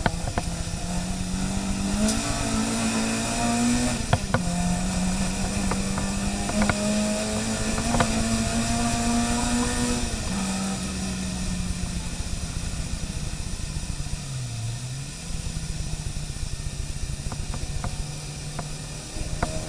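Racing car engine running hard under steady throttle. Its note holds high, drops about halfway through, then dips briefly and recovers about three-quarters through as the throttle is lifted and reapplied. A few sharp knocks come in the first half.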